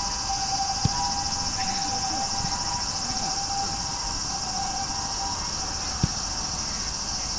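A steady, high-pitched insect chorus, with a thinner steady tone lower down that fades in and out. Two brief sharp knocks sound about a second in and about six seconds in.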